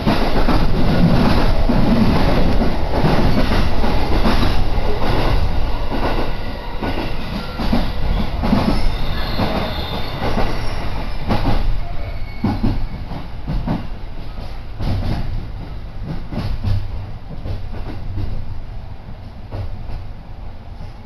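Electric commuter train running on the rails, heard from inside the carriage: a loud rumble of wheels with regular clicks over rail joints. Through the second half the noise eases and the clicks come further apart as the train slows for a station.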